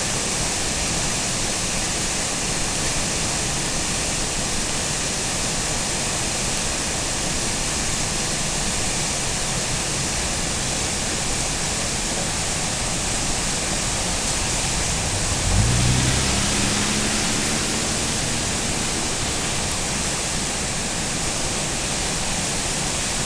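Zeballos River in flood, swollen by a rain-on-snow event, running over Zeballos Falls: a steady, even rush of heavy water. About two-thirds of the way through, a brief low hum rises in pitch over it.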